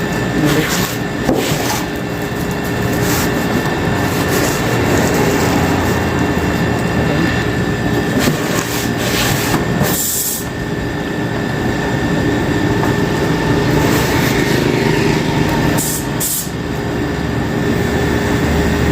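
Commercial bottle cooler running with its compressor and condenser fan on, a steady mechanical hum with a couple of short hissing bursts, while R134a refrigerant is charged into it.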